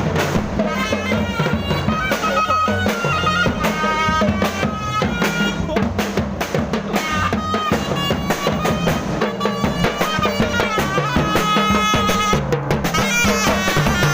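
Thai procession band music: steady drums and percussion under a reedy, bagpipe-like melody line.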